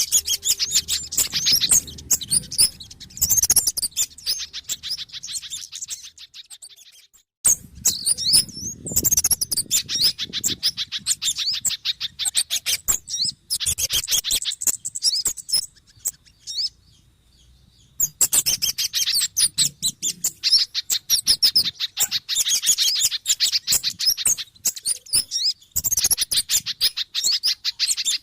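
Bird-lure recording of small birds calling excitedly: rapid, high-pitched chattering and trilling from a mix of kemade, sogon and pijantung (spiderhunter) calls, in long bursts with two short breaks about a quarter and about three fifths of the way through.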